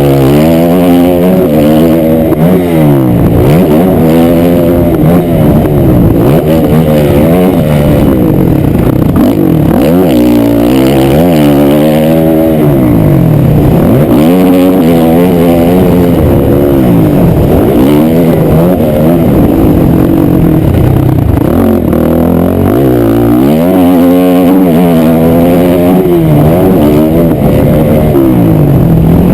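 Honda 450 four-stroke single-cylinder dirt bike engine, loud, revving up and down over and over as the throttle is opened and closed while riding, its pitch climbing and dropping every second or two.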